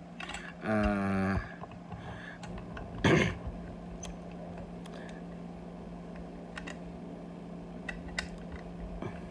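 A man's drawn-out hesitation sound ("umm") over a steady low hum, followed by a short rush of noise about three seconds in and a few faint clicks near the end.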